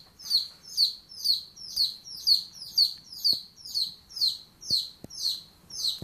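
A bird calling over and over with a short, high chirp that slides downward, about two calls a second in a steady rhythm.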